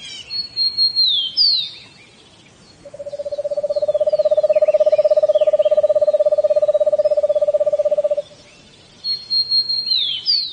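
An owl giving a long, even trill of about five seconds on one steady pitch. A higher whistled bird call, held and then sliding down, sounds before the trill and again near the end, with faint chirps behind it.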